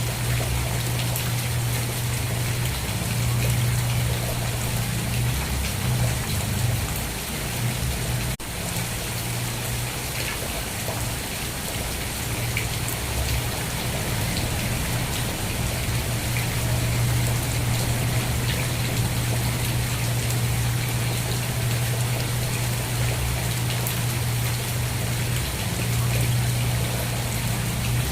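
Steady rain falling, an even hiss of drops with a low rumble underneath. The sound dips briefly about eight seconds in.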